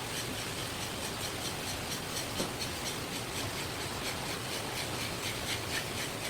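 A knife scraping over a fish in rapid, even strokes, about five a second, over a steady hiss.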